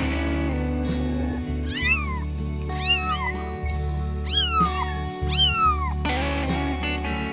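A cat meowing about four times, each call rising and then falling in pitch, over background music with a steady bass line.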